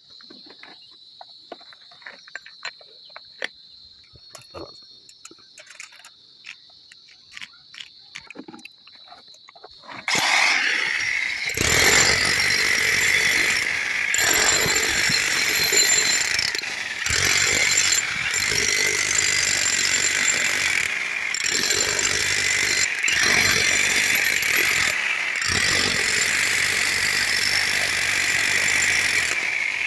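A steady high thin tone with scattered light clicks, then about ten seconds in a loud power tool starts, running steadily with brief let-ups every second or two.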